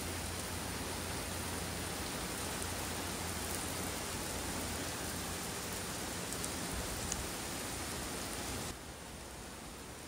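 Steady rush of wind-driven rain in Hurricane Nicole's storm conditions. The level drops a step near the end.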